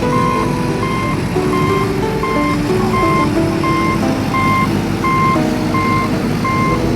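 Vehicle reversing alarm beeping evenly, roughly every 0.7 seconds, over a simple electronic tune.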